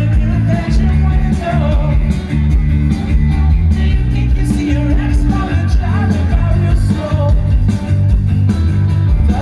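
Live rock band playing loud, with a singer's voice over distorted guitars, bass and drums, heavy in the low end as picked up by a phone in a concert crowd.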